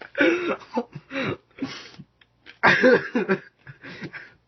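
A man coughing and gagging in loud, rough bursts while chewing a mouthful of bitter coffee beans: one bout at the start with shorter ones after, and a bigger one about two and a half seconds in.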